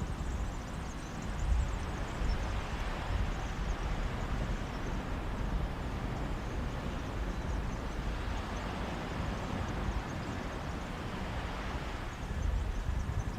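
Mediterranean sea waves washing onto a beach in a steady hiss of surf that swells past the middle as a wave comes in, with a sea breeze adding a low rumble.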